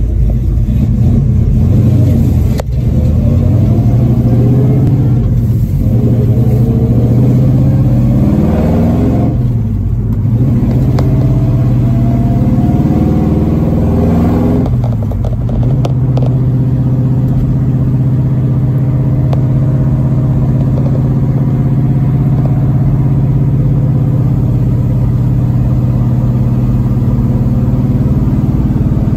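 1966 Chevelle SS 396's big-block V8 engine, heard from inside the cabin, pulling hard through the gears. Its pitch climbs and drops at gear changes about nine and fifteen seconds in, then it settles into a steady cruise.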